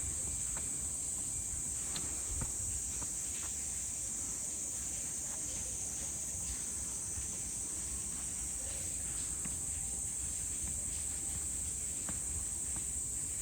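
Insects droning in a steady high-pitched chorus, with a few faint footsteps beneath.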